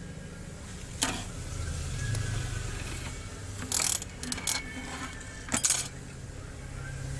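Small tools clicking and tapping at a repair bench: a sharp click about a second in, then short clusters of quick taps around four and five-and-a-half seconds in, over a low steady hum.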